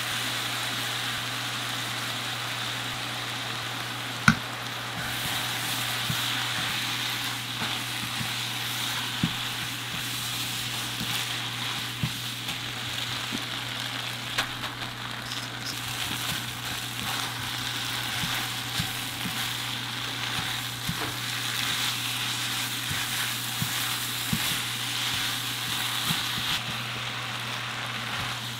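Food sizzling as it fries in a pan, a steady hiss with scattered light clicks as it is stirred, and one sharper click about four seconds in.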